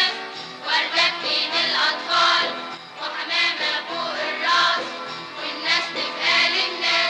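Song sung by a children's choir over instrumental backing, the voices moving together through sung phrases.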